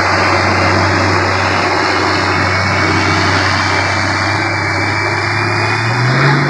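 A 2002 Chevrolet Duramax pickup's 6.6-litre turbo-diesel V8 running hard under full load, pulling the weight-transfer sled: a loud, steady drone whose pitch rises near the end.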